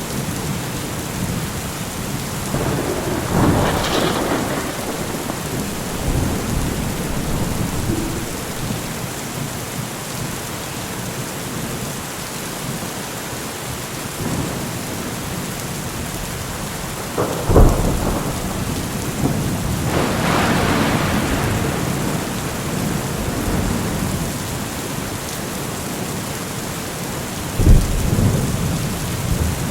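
Steady rain with repeated thunder: a rumble a few seconds in, a sharp crack followed by a long rumble around the middle, and another sharp crack near the end.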